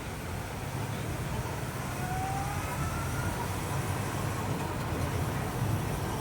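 Motor vehicle running with a steady low rumble that grows slightly louder, and a faint rising whine a couple of seconds in.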